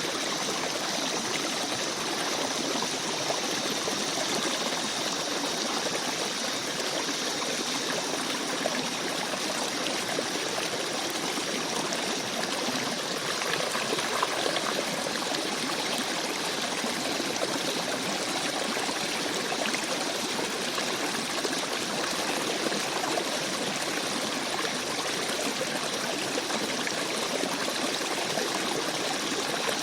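Small forest stream babbling and trickling over rocks, a steady rush of running water.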